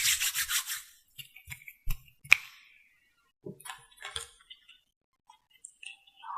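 Close-miked makeup items being handled: a rapid, rhythmic scratchy brushing for about the first second, then scattered small clicks and taps of cosmetic cases and tools, the sharpest a little past two seconds in.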